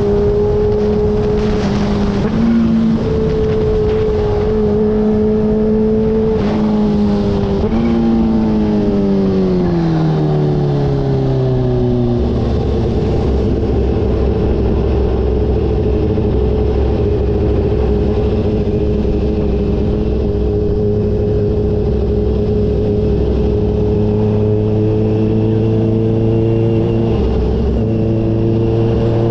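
Kawasaki H2's supercharged inline-four engine heard while riding. It runs at a steady pitch at first, drops smoothly as the revs fall, then holds a lower steady note.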